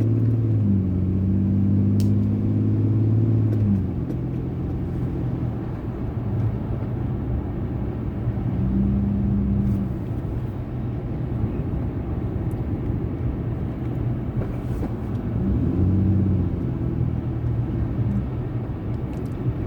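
Car engine and tyre noise heard from inside the cabin while driving: a steady low rumble. The engine's hum stands out for the first few seconds and twice more briefly.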